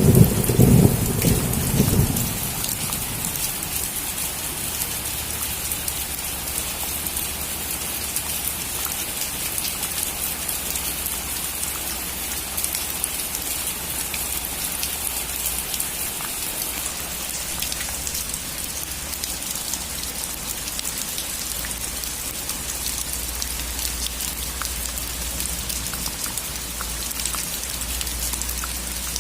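Rain falling steadily on a roof, a dense patter of drops. A low thunder rumble is fading out over the first two seconds.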